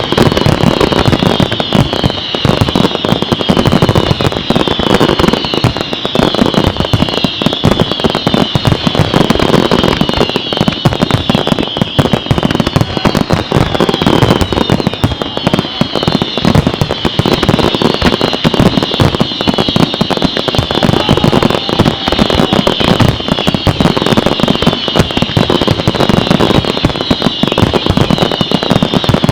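Fireworks display in a dense, continuous barrage of bangs and crackling, with many overlapping high whistles that keep sliding down in pitch.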